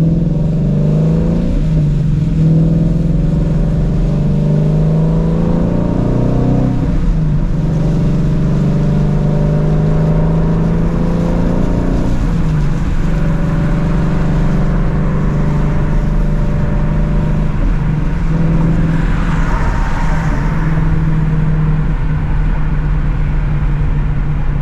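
Ford Mustang Shelby GT350's 5.2-litre flat-plane-crank V8 exhaust while driving, its pitch climbing and then dropping back a few times as the car accelerates and settles, over a steady hiss of tyre and road noise.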